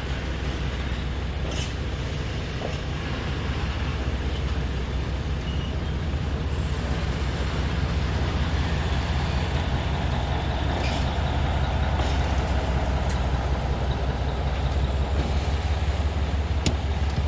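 Diesel rail vehicle engine running steadily with a deep hum, slowly growing louder as it works nearby.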